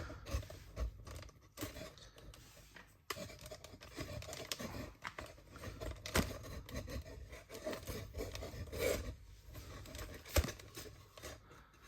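Irregular rasping, sawing strokes of a blade cutting through a foam suspension bump stop to shorten it by about 25 mm, with a few sharp knocks.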